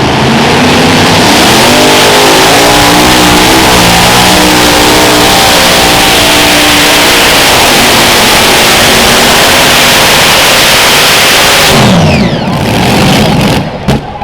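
8,000 lb unlimited modified pulling tractor running its engines at full power under load, the pitch climbing in the first couple of seconds and then held. About twelve seconds in, the throttle comes off and the engine pitch falls away, with a sharp knock near the end.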